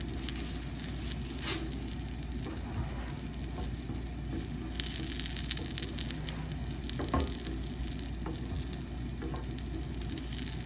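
Egg, sausage and green-onion pancake sizzling in hot oil in a nonstick frying pan over a high gas flame, a steady frying hiss with scattered small pops. A wooden spatula knocks against the pan now and then, loudest about seven seconds in.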